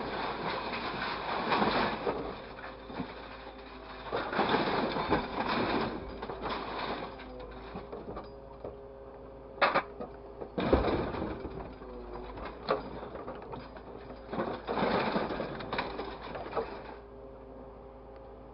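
A small motor whirring in short bursts of a second or two, with a few sharp clicks in between.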